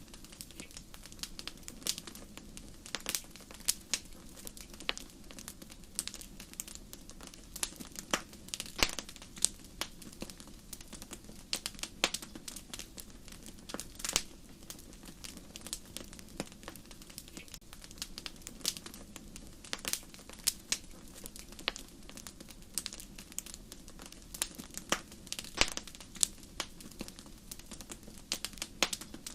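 Wood fire in a fireplace crackling: irregular sharp pops and snaps, some louder than others, over a low steady hum.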